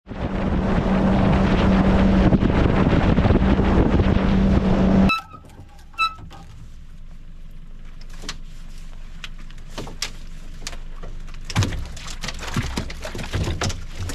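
Boat motor running under way, loud, with a steady hum and rushing noise, cutting off suddenly about five seconds in. After that it is quieter, with two short pings and scattered knocks and clicks.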